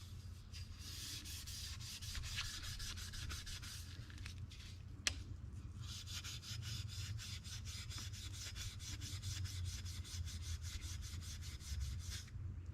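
Stainless steel car trim being rubbed and polished by hand in quick back-and-forth strokes, about five a second in the second half. There is one sharp click about five seconds in.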